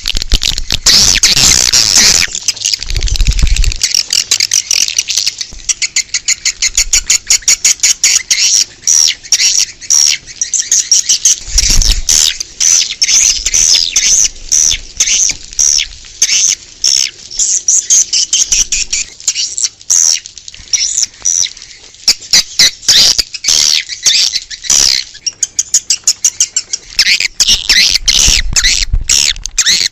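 A dense chorus of swiftlets twittering: rapid, high-pitched chirps and clicks overlapping without pause, the kind of swiftlet-call recording played to lure swiftlets to a nesting house.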